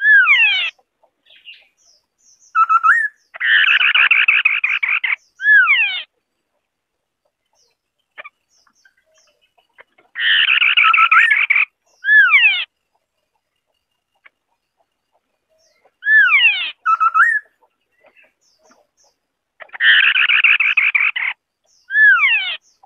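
White-browed scimitar-babbler singing: loud phrases of sweeping downslurred whistles alternating with rapid chattering trills, repeated at intervals of several seconds.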